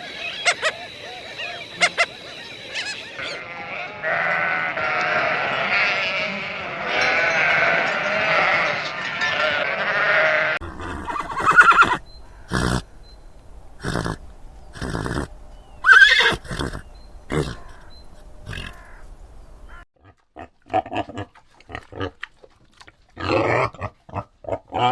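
Farm animals calling: a dense, continuous stretch of calls for several seconds, then a run of separate short loud calls, and short grunt-like calls near the end.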